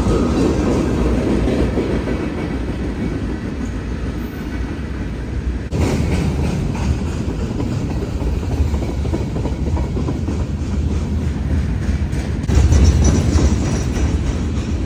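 Freight train rolling past, its cars' wheels clacking over the rail joints in a continuous loud rumble. The sound jumps suddenly about six seconds in and grows louder again near the end.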